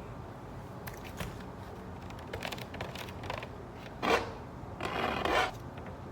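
Packaging being handled and unwrapped by hand: a few light clicks and small scrapes, a short sharp scrape about four seconds in, then a longer rustling rub about a second later.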